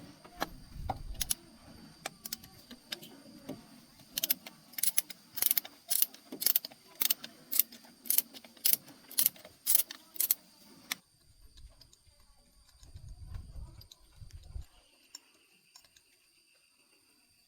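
Sharp metallic clicking from hand tools at work on a car. It starts as scattered clicks, then settles into a steady run of about two clicks a second that stops abruptly about eleven seconds in. A brief low rumble follows.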